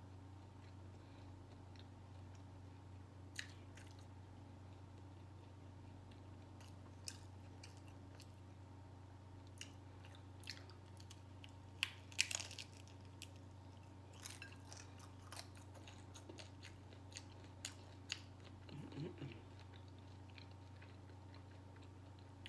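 Quiet close chewing and crunching of a steak taco in a crisp ranch taco shell. Scattered sharp crunches come irregularly, the loudest about halfway through, over a steady low hum.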